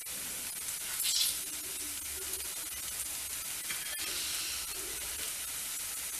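Soya chunks (meal maker) sizzling in masala in a frying pan as they dry-roast: a steady sizzle with a brief louder flare about a second in.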